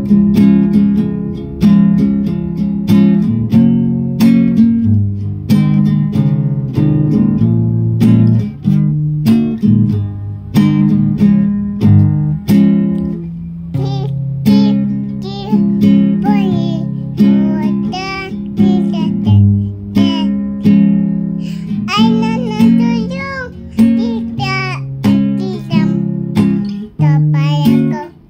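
Acoustic guitar strumming chords, playing a song's introduction after a count-in. A singing voice with vibrato joins about halfway through.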